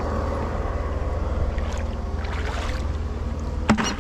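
An engine runs steadily with a low hum, like a boat motor idling close by. Near the end comes a single sharp metallic clink.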